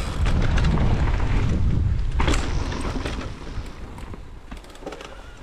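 Mountain bike riding fast down a trail: heavy wind buffeting on the microphone and tyre rumble over rough ground, with a sharp clatter of the bike about two seconds in, then easing off.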